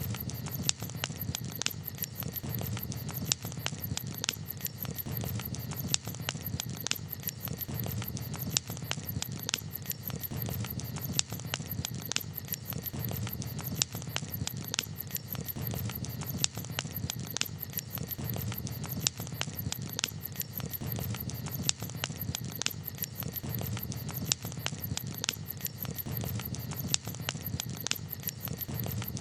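Wood campfire crackling, with frequent irregular sharp pops and snaps over a steady low background.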